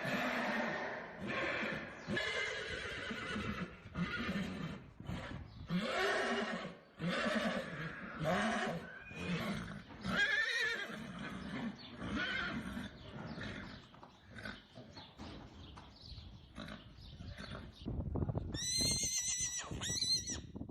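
Horses whinnying, one call after another, ending in a high, shrill whinny near the end.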